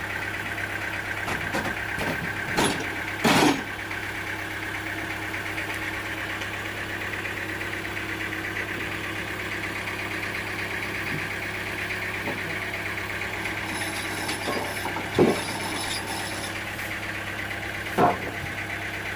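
Sawmill machinery's engine running steadily, with a few sharp knocks over the hum, the loudest a little after the start and again around halfway and near the end.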